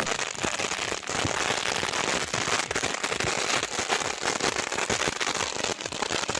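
Several firework fountains burning at once: a continuous hiss of spraying sparks with dense, rapid crackling.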